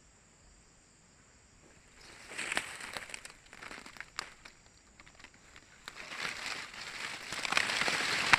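Foliage rustling and crackling as it is pushed and handled, starting about two seconds in, in uneven bursts with sharp snaps, loudest near the end.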